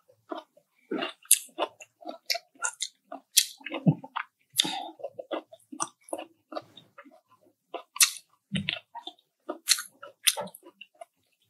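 Close-miked crunching and chewing of chicharon (deep-fried pork rinds): irregular crisp crackles, with a few sharper snaps as pieces break.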